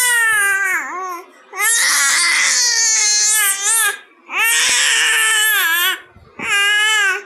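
A baby wailing in loud, high-pitched cries: four long wails, each held for a second or more, with short breaths between.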